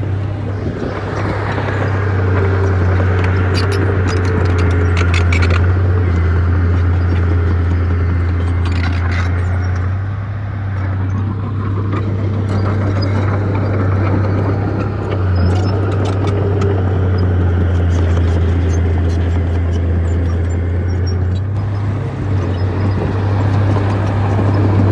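Bulldozer's diesel engine running steadily under load, with a deep low drone that dips briefly partway through and short bursts of clatter.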